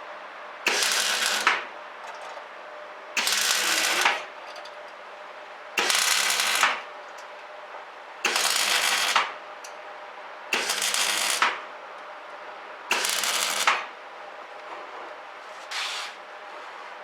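Semi-automatic (MIG) welder arc crackling in short bursts of about a second each, six times at even spacing, then a brief one near the end: stitch-welding a patch plate onto the bulkhead.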